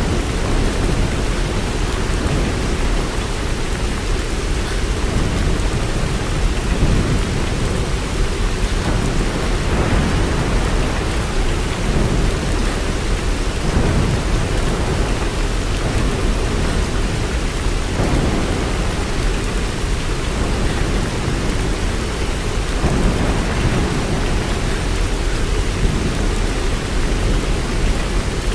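Steady rain, an even hiss, over a continuous low rumble.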